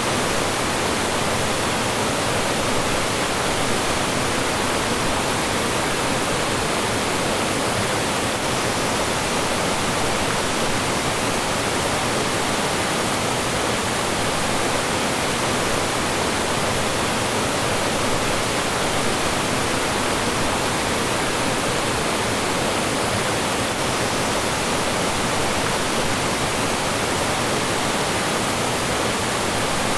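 Mountain stream rushing and splashing over small falls, a steady, even rush of water with no breaks.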